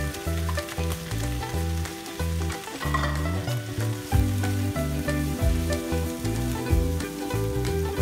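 Sliced bitter melon sizzling in hot oil in a nonstick wok while a spatula stirs it, with a brief louder flurry of sizzle about three seconds in. Background music with a stepping bassline plays throughout.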